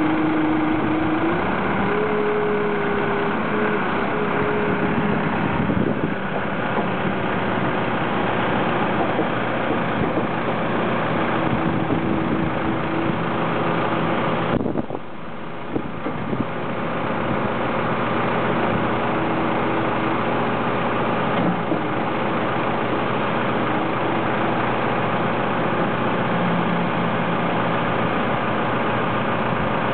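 2005 JCB 214E backhoe loader's diesel engine running steadily, with a short dip in level about halfway through.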